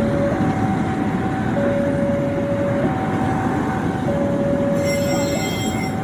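A train rumbling past while a two-tone warning siren alternates high and low, each tone about a second and a quarter long. A brief high squeal near the end, likely from the train's wheels.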